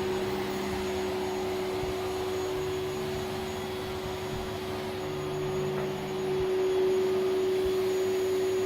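Vacuum cleaner running steadily, its motor holding one constant humming pitch over a hiss of air.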